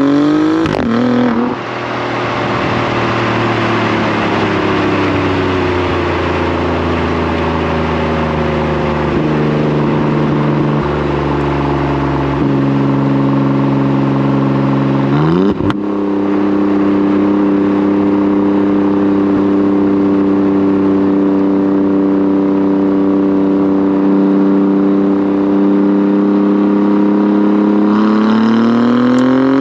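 2018 Alfa Romeo Giulia Quadrifoglio's twin-turbo V6 through its stock exhaust, heard close up at the rear bumper while driving. The engine note holds fairly steady, climbs quickly to a sharp crack at a gear change about halfway through, then settles again and starts climbing near the end.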